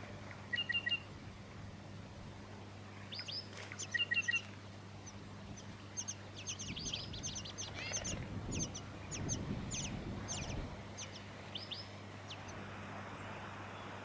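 Tawny-crowned honeyeater nestlings begging in the nest: a rapid run of thin, high, downward-sliding calls from about six seconds in until about twelve. Short bird chirps come in pairs of quick bursts near the start and again about four seconds in.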